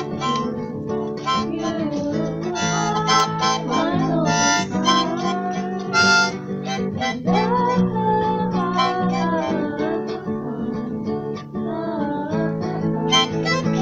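Harmonica played over steady acoustic guitar strumming, with held and bending notes: an instrumental break between sung lines.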